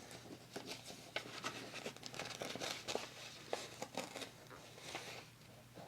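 Delicate paper being torn by hand, in short irregular rips and crinkles that die down near the end.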